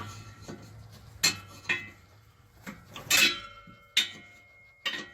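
Steel pry bar clanking against the exhaust pipe and hanger while prying the pipe out of its rubber hanger bushings: about seven irregular metallic clanks, a few ringing briefly.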